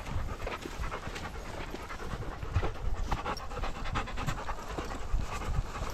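A dog panting close by.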